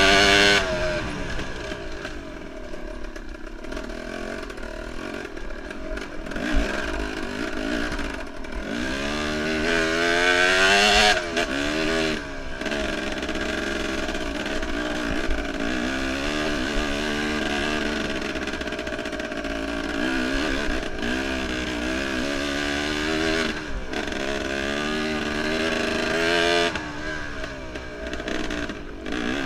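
Enduro motorcycle engine revving up and down again and again as it is ridden hard, its pitch rising and falling with each burst of throttle. The loudest bursts come right at the start and about eleven seconds in.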